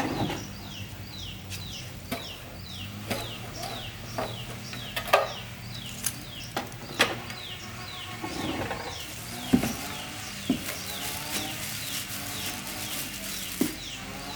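Chickens clucking over a steady run of short, high, falling chirps repeated about two to three times a second, with scattered sharp knocks.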